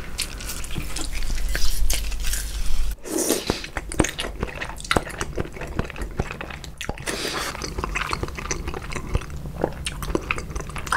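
A lemon half squeezed by hand, its juice dripping onto raw salmon. Then raw salmon is slurped in with a louder wet sound about three seconds in, followed by close-miked wet chewing with many small mouth clicks.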